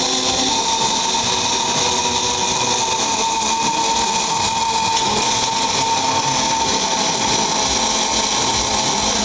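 Pulsed MIG/MAG welding arc from a Panasonic welding robot: a steady buzzing hiss with a thin held tone.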